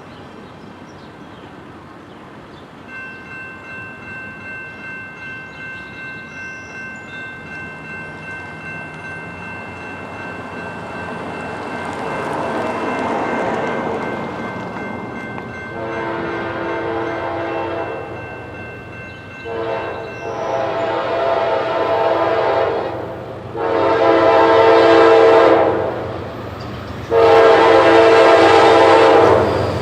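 Freight locomotive's multi-chime air horn sounding four long blasts as the train nears a grade crossing, over the building rumble of the train. A crossing bell rings steadily beforehand.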